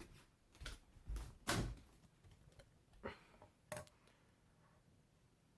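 A handful of light knocks and clicks in the first four seconds, then the faint steady hum of a Hampton Bay Lyndhurst ceiling fan motor running on medium speed.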